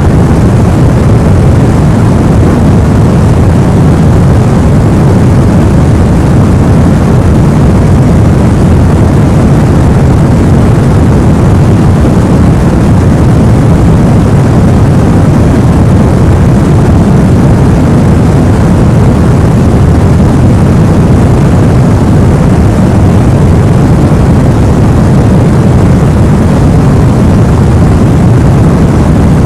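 Steady white noise played for sleep, unchanging throughout, heaviest in the low end so it sounds like a deep, even rushing hiss.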